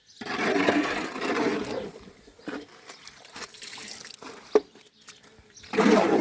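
Water splashing in two loud gushes: one lasting about two seconds at the start and a shorter one near the end, with small splashes between.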